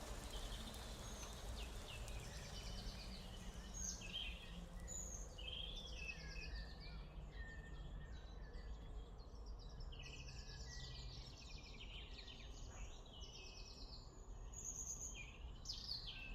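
Several songbirds singing and chirping in short trills and calls, over a steady low background rumble.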